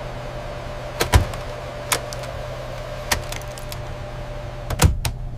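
A steady low hum with about six sharp clicks and knocks scattered through it, the loudest a little after a second in and near the end.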